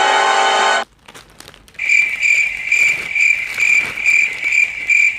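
A held musical chord ends shortly after the start. After a short pause comes cricket chirping, a high even chirp repeating about twice a second: the comedy 'crickets' sound effect.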